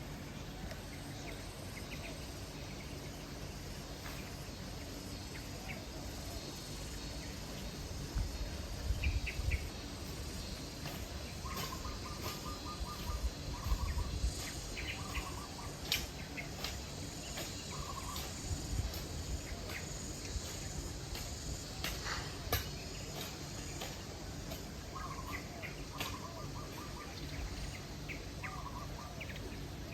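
Tropical garden ambience: birds calling in short repeated chirping phrases over a steady high insect drone, with a few low rumbles about 9 and 14 seconds in.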